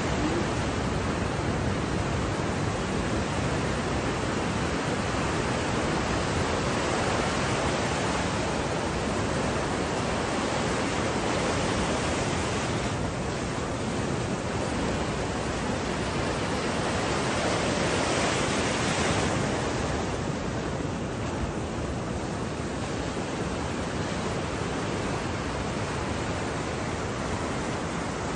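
Steady dense rushing noise of stormy wind and sea around a boat, with no let-up.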